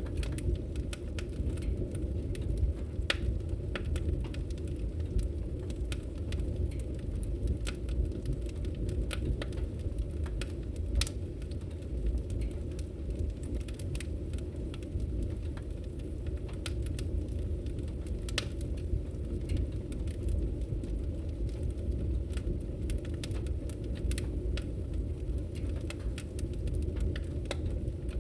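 Fire in a fireplace crackling: a steady low rumble with scattered sharp pops.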